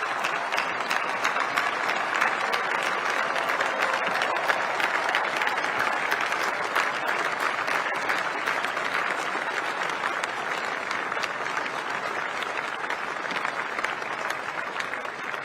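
Large audience applauding steadily in a big hall, a round of applause for the team that built the aircraft, easing off slightly near the end.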